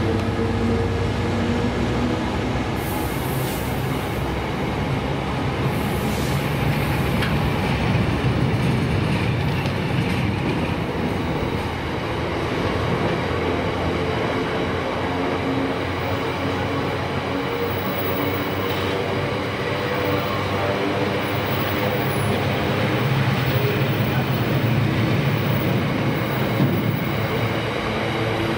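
Rake of empty aggregate box wagons on a freight train rolling past, a steady noise of wheels on rail.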